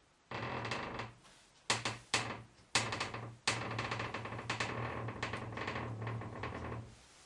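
Interior door hinge creaking as the door is swung: a low, buzzy creak, then several sharp clicks, then a longer creak. This is the squeak that has suddenly appeared in the door.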